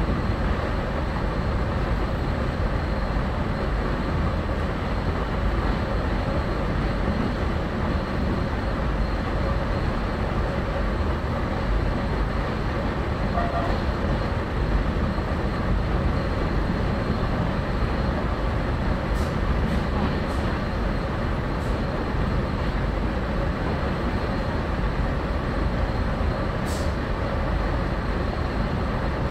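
Steady running noise of a moving passenger train heard from inside the carriage: a constant low rumble of wheels on track.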